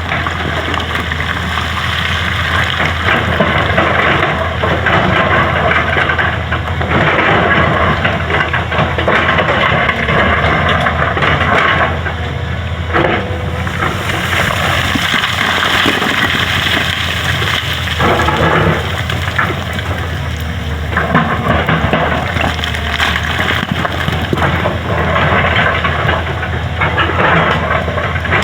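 Excavator digging up a road surface: the engine runs with a steady low hum under a continuous, shifting rough noise of the bucket scraping and breaking material, with occasional knocks.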